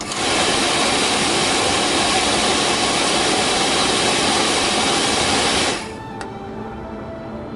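Rebuilt 1976 VW bus heater blower motor switched on, its fan sending out a steady rush of air that cuts off suddenly just before six seconds in, followed by a single click.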